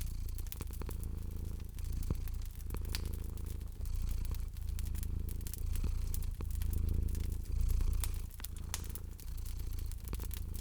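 A cat purring, a low rumble that swells and fades about once a second with each breath, over a wood fire crackling with frequent sharp pops and snaps.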